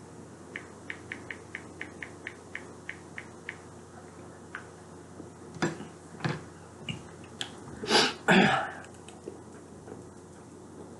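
Close-up eating sounds of a person chewing chicken Caesar salad: steady rhythmic chewing clicks, about four a second, for the first few seconds. Then a few sharper crunches or clatters, loudest about eight seconds in.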